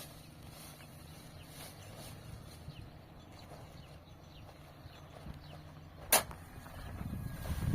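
Work noise from filling a container by hand on a building site: soft scraping and handling with scattered small ticks, a single sharp knock about six seconds in, and louder rough scraping near the end.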